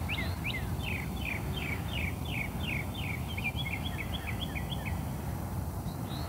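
A songbird singing a series of clear, downward-sliding whistled notes, about three a second, that run into a quicker string of notes and stop about five seconds in, over a steady low background rumble.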